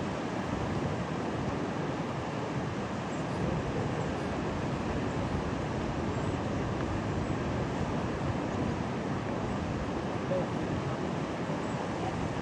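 Rough, stormy sea surf making a steady, unbroken wash of noise, with wind blowing across the microphone.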